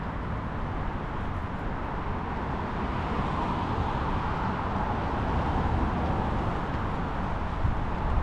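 Wind buffeting the microphone during a bike ride, over steady road traffic noise; the traffic swells a little in the middle.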